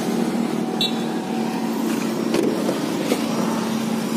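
A steady mechanical hum with one constant low tone, broken by a few light clicks.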